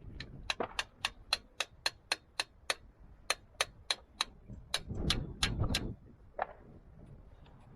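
A run of short, sharp clicks from hand-tool work on an engine block, about three a second in short bursts with small pauses, and a last single click about six and a half seconds in.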